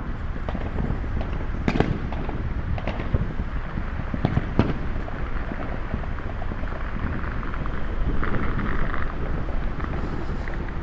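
Fireworks going off: a few sharp bangs, the strongest about two seconds and four and a half seconds in, over a steady low rumble, with a short hiss about eight seconds in.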